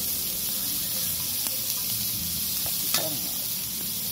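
Pork chops and sausage sizzling on a hot cast iron griddle, a steady frying hiss, with a couple of short clicks of a utensil against the metal as the meat is stirred.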